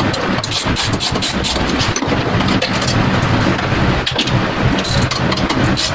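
Ratchet wrench clicking in quick irregular runs while bolts are worked off an engine-bay brace, over a steady low hum.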